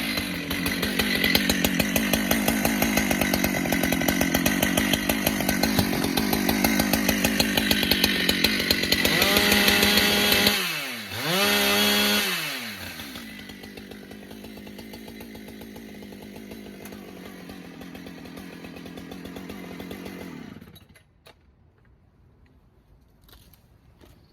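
Husqvarna 395 XP two-stroke chainsaw running at full throttle through a cut, testing a chain sharpened on one side to stop it cutting crooked. About ten seconds in the engine note falls, revs up once more, then settles to idle and cuts off near the end.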